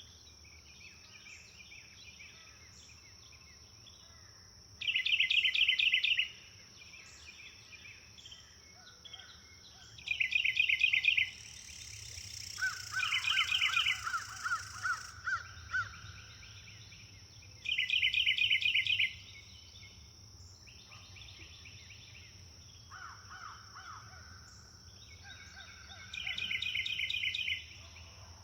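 Songbirds singing, one repeating a loud, rapid trill about a second and a half long every five to eight seconds, with softer, lower trills in between. A steady high-pitched insect drone runs under it.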